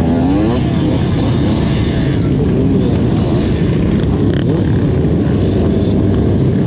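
Motorcycle engines running and revving, the pitch rising and falling, under heavy wind rush on the microphone.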